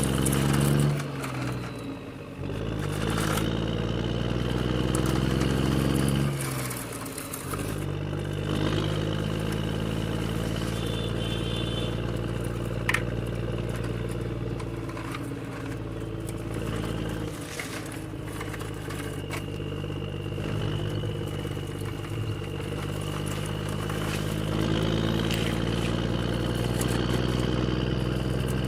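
An engine sound that revs up near the start, runs steadily at a low hum, then revs up again near the end.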